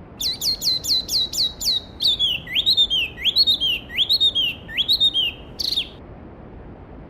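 A songbird sings one phrase of about five and a half seconds: first a quick run of about eight repeated falling notes, then a string of looping rising-and-falling whistles, ending in a short burst. Beneath it runs the steady rush of a mountain stream.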